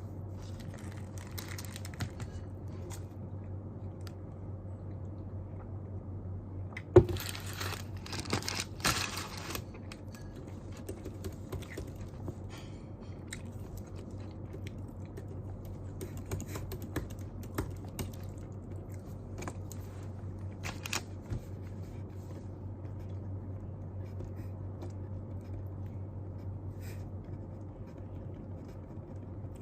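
Quiet desk sounds over a steady low room hum. About seven seconds in there is a sharp tap of an object set down on the desk, followed by a couple of seconds of paper rustling. Occasional light taps and small rustles follow.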